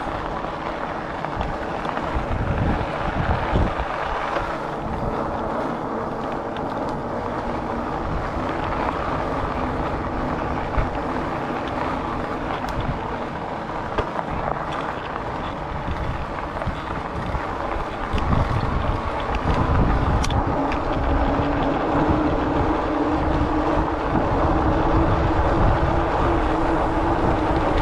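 Riding noise from a fat-tyre electric bike: wind buffeting the chest-mounted camera's microphone and tyres rolling on pavement, under a faint steady whine from the bike's hub motor. About two-thirds of the way through, the rumble and the whine get louder.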